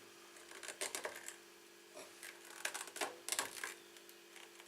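Scattered plastic clicks and rustling as nylon trimmer line is pulled through a brush cutter's bump-feed head and the ends are evened up, over a faint steady hum.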